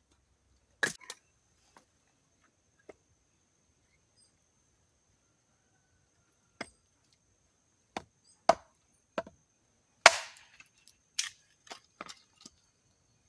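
A hatchet chopping wood: about a dozen sharp, irregularly spaced strokes, the loudest about ten seconds in.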